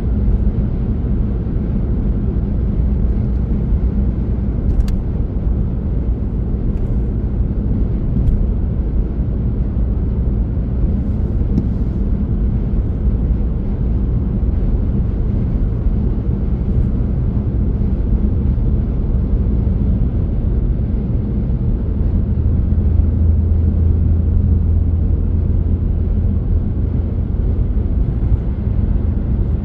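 Steady low rumble of a car being driven, road and engine noise, with the low hum growing a little stronger for a few seconds toward the end.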